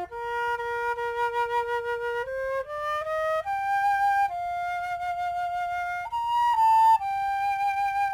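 Solo flute playing a slow melody: a long held note, then a few notes stepping upward about two to three and a half seconds in, then more long sustained notes to the end.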